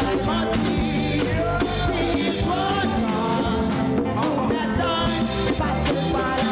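Worship band music with a singing voice over a steady drum-kit beat and sustained instrument chords.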